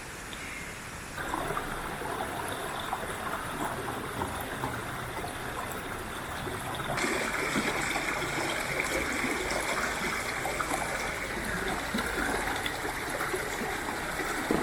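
Flowing water, like a stream, running steadily. It gets suddenly louder about a second in and again about halfway through.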